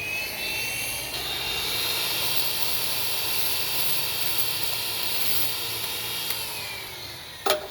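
DeWalt DWP849X rotary buffer running at speed while its wool compounding pad is cleaned with a pad spur: a steady motor whine with a scraping hiss over it. The motor winds down near the end, followed by a sharp knock.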